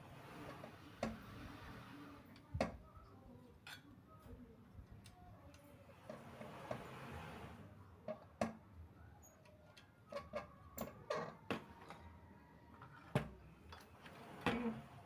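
Irregular clicks and light knocks, as of hand tools and bicycle parts being handled, with a sharp click about thirteen seconds in.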